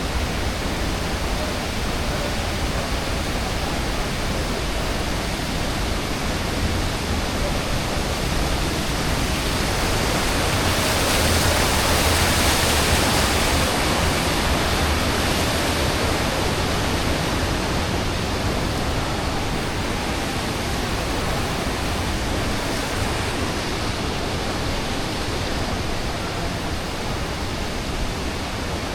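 Steady rushing roar of falling water, swelling a little about halfway through.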